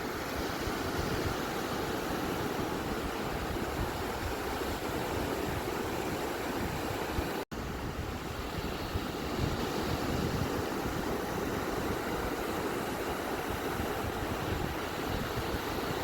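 Beach waves washing in as a steady rushing noise, with a split-second dropout about halfway through.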